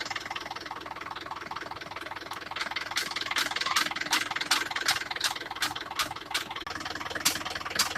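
Tractor engine running steadily, with a regular sharp clacking about two to three times a second from about three seconds in.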